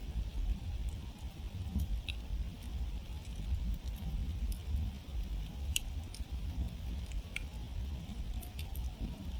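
Wood campfire crackling: irregular sharp pops and snaps of burning wood, a dozen or so scattered through, over a steady low rumble from the fire.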